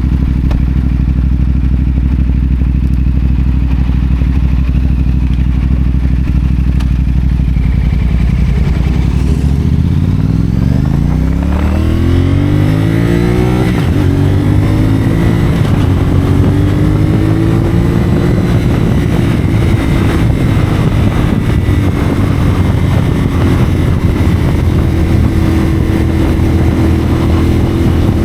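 CFMoto 450SR parallel-twin engine through a Yoshimura AT2 slip-on exhaust. It runs at a steady low engine speed for about the first eight seconds, then revs up as the bike pulls away, with a gear change about halfway through. After that it holds a fairly steady engine speed that rises and falls gently.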